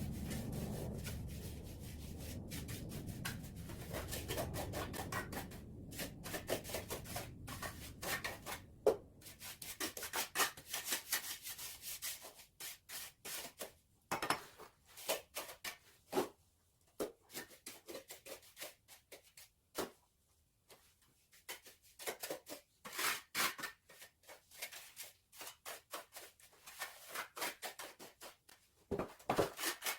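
Steel trowel scraping over cement mortar in quick, irregular strokes, a few a second, with short pauses. A low rumble fades out over the first several seconds.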